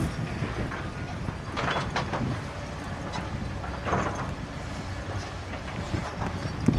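Heavy diesel machinery running with a steady low rumble, with a few short rushing, clattering noises about two and four seconds in.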